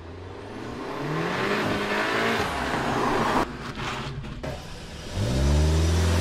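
SEAT hatchback's petrol engine revving as the car accelerates, its pitch climbing twice. There is an abrupt break in the middle, and the second rev is the louder one.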